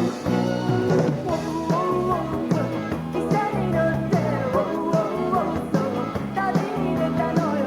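Live pop band music: a melody line over guitar, bass and a steady drum beat.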